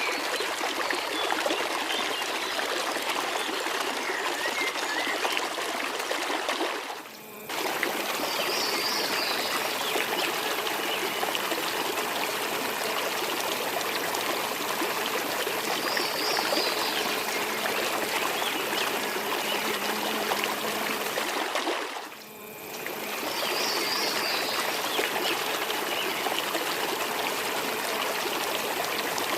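Steady rush of flowing water from a waterfall and its stream, dropping away briefly twice, with a few short high chirps over it.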